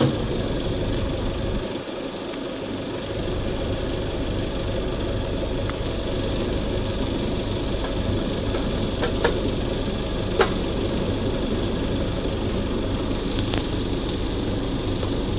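A steady low mechanical drone, with a few sharp clicks about nine and ten seconds in.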